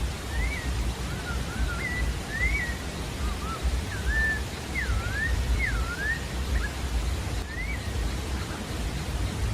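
Sabiá-da-várzea singing: a phrase of short, varied whistled notes that slur up and down, running for about six seconds, with one more note about a second later. A steady low rushing noise lies underneath.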